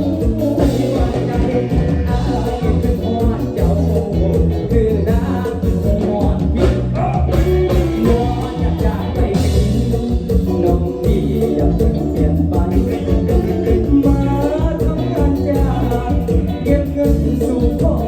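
Isan mor lam band playing a toei song live: a sung melody over electric bass, guitar and drums with a steady beat.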